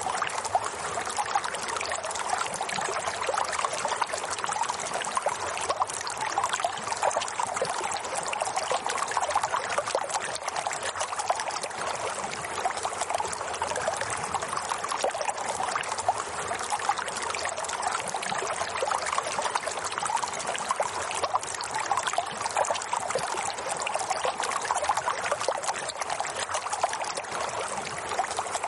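Water running and trickling steadily, a continuous babbling flow like a small stream.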